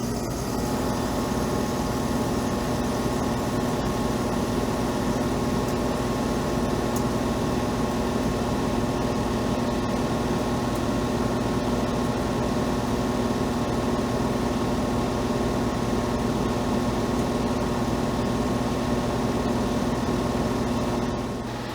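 Air conditioner running steadily, with a constant hum of several fixed tones over the sound of its fan.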